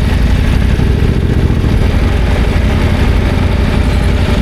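Adventure motorcycle engine running with a steady, dense low rumble, under a haze of noise.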